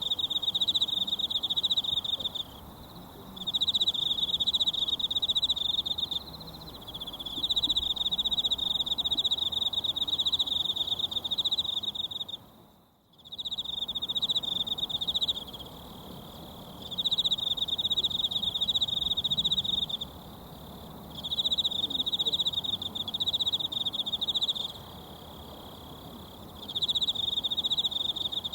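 An insect, cricket-like, singing in long shrill trills of about two to four seconds with short pauses between, over a faint steady rush of a mountain stream. All sound dips out for a moment about thirteen seconds in.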